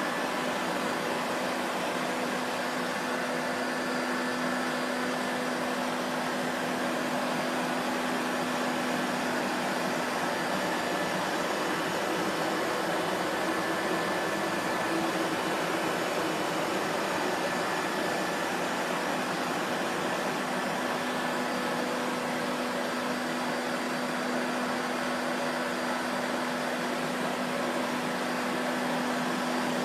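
Vacuum cleaner running steadily: an even motor rush with a constant hum, no change in speed.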